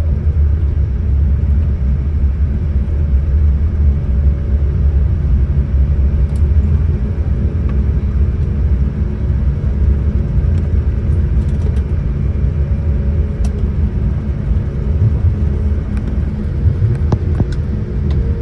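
Steady low rumble inside the cabin of a Boeing 787-10 airliner on its arrival: engine and airflow noise, with a faint engine tone that drops just as it begins and rises again at the very end.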